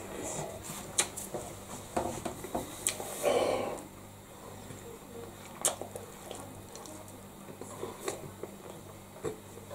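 A man biting into a soft bread roll filled with haggis, tattie scone and fried egg, then chewing it: wet squishing and sharp little mouth clicks, busiest in the first four seconds, then quieter chewing with a few clicks.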